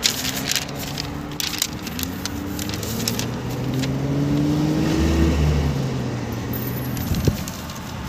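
Car engine heard from inside the cabin as the car pulls away. Its note climbs three times and drops back between climbs as it shifts up through the gears. Crackling handling noises come in the first two seconds, and a single knock comes about seven seconds in.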